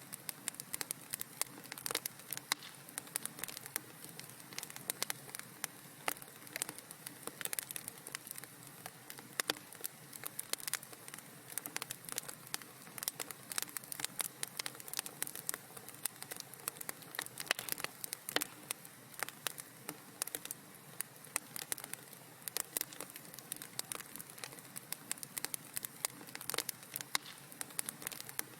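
Wood fire crackling in a fireplace: dense, irregular sharp pops and snaps over a soft steady hiss.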